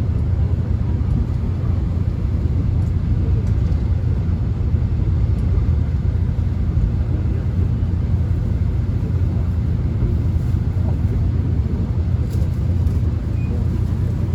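Inside a subway car running at steady speed: a constant low rumble of the train on the tracks, with a few faint ticks near the end.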